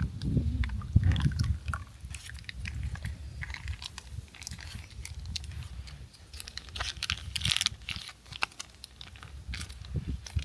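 Close-up chewing and crunching of food, with many small irregular clicks.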